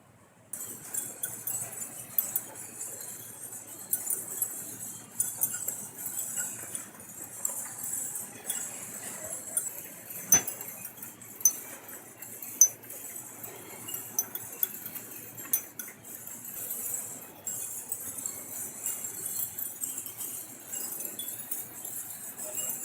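A dense, continuous chorus of high-pitched chirping and clicking from many edible-nest swiftlets, with a few sharper, louder clicks about ten to thirteen seconds in.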